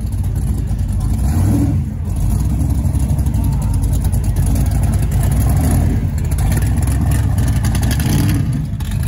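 Chevrolet Chevelle SS's V8 running loud and deep as the car drives slowly past. The engine note dips briefly about two seconds in, picks up again, and eases off near the end.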